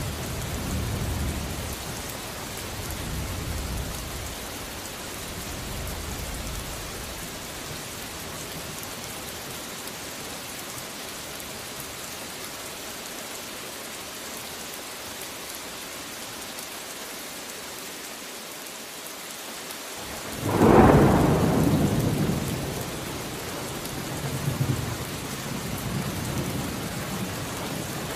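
Steady rain with rolling thunder: a low rumble fades over the first few seconds, then a sudden loud thunderclap about 20 seconds in rumbles away.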